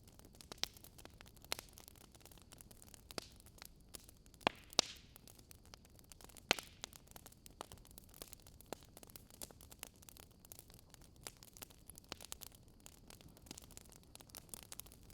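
Faint wood fire crackling: irregular sharp pops and snaps, a few louder ones about a second and a half, four and a half, five and six and a half seconds in, over a steady soft hiss.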